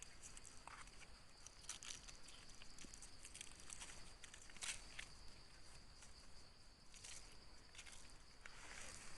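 Faint rustling and crackling in dry forest leaf litter, a few sharper crackles among them, over a steady high-pitched insect drone.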